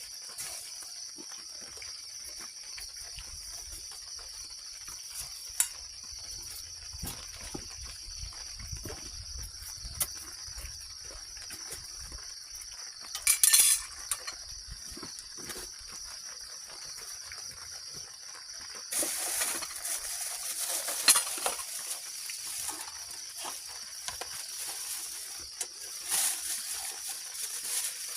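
Steady high-pitched buzzing of insects, with scattered clicks and knocks of things being handled. A brief louder clinking clatter comes about halfway, and bouts of rustling noise come around twenty seconds in and again near the end.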